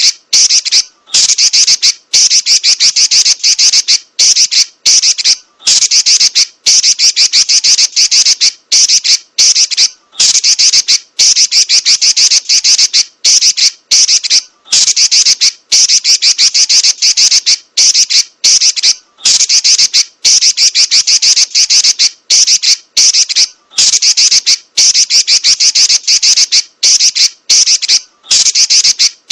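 Female Pekin robin (red-billed leiothrix) giving a rapid, shrill chattering call (nyerecet) in long runs, broken by brief pauses every second or two.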